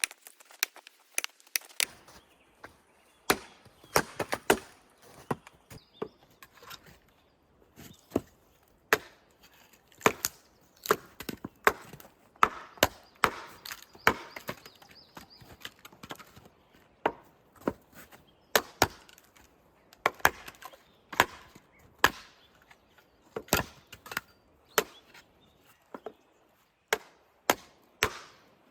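Wood being chopped with a blade: a long run of sharp, irregular chopping strikes, about one to two a second, some much louder than others.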